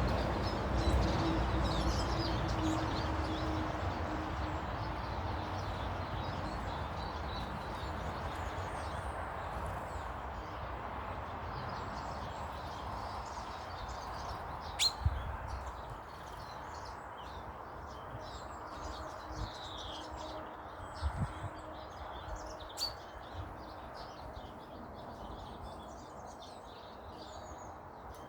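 Small garden birds chirping and calling at intervals, over a low rumble that slowly fades through the first half. A few sharp clicks and soft thumps come about halfway through and again a little later.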